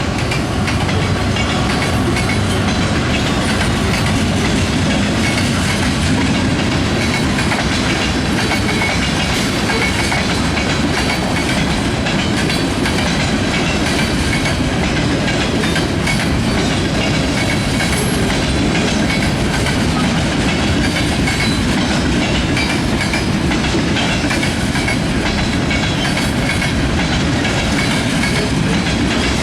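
Canadian National manifest freight train passing close by, its freight cars rolling steadily past with a loud, continuous rumble of wheels on rail.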